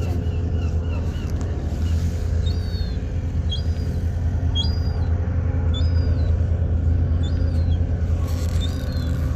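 Steady low rumble of an idling motorcycle engine. A bird's short chirps repeat about once a second through the middle.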